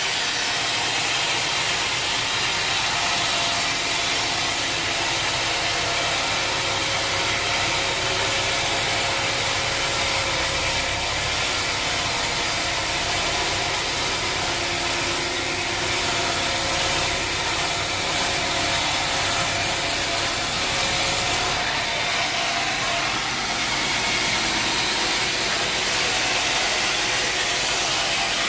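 Sawmill saw cutting through a log, a steady dense rasping of blade in wood with machinery running underneath; the highest hiss drops away about three quarters of the way through.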